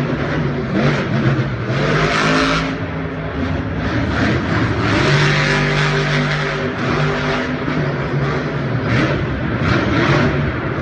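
Racing truck engines running and revving, their pitch shifting up and down.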